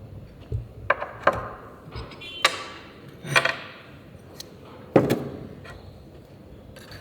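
Hand tools and metal engine parts knocking and clinking as they are handled and set down, about half a dozen separate strikes, several with a short metallic ring.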